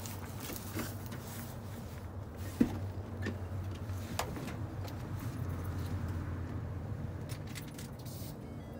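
Keys jangling with scattered light clicks and knocks, one sharper knock about two and a half seconds in, over a low steady hum.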